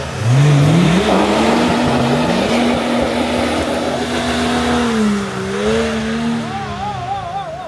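An off-road 4x4's engine revs up hard within about a second and holds at high revs under load, dipping briefly and then rising again before easing off near the end. A loud rushing noise of tyres and terrain runs under it.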